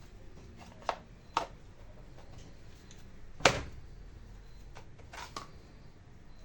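A few sharp clicks and knocks from tools and parts being handled on a workbench: two early on, a louder knock about halfway through, then a few softer clicks. No motor is running.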